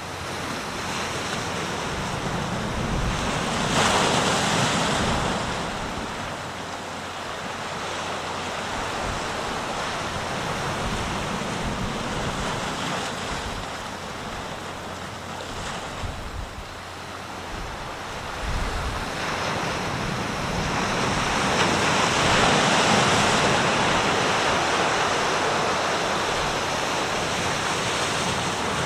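East Sea surf: waves breaking and washing in as a continuous rush, swelling louder about four seconds in and again from about nineteen seconds on. Wind buffets the microphone with a low rumble underneath.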